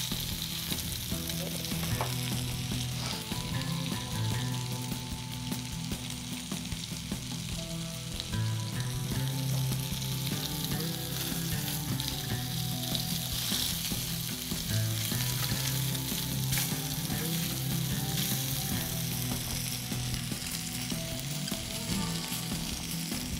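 Skewered chicken mince kababs shallow-frying in a little oil in a pan on a gas burner, giving a steady sizzle.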